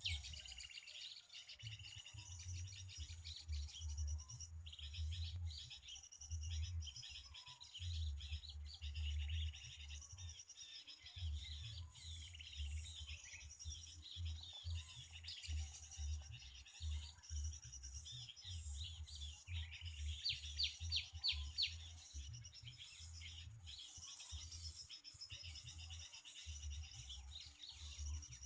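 Small songbirds chirping and calling repeatedly, in many short high notes, with a quick run of rapid notes about two-thirds of the way in. A low rumbling noise comes and goes underneath.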